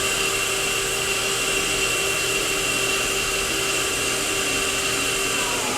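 Main spindle of a Kia SKT-15LMS CNC turning center running at 2500 RPM: a steady whir with a constant whine. Near the end the pitch starts to fall as the spindle begins to slow down.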